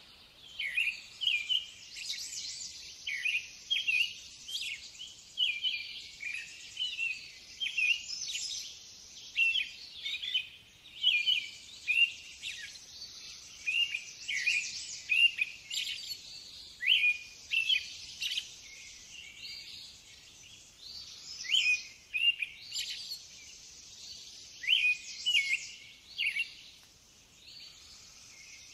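Small birds chirping and calling in woodland: short high chirps, often one or two a second, thinning out near the end, over a steady high hiss.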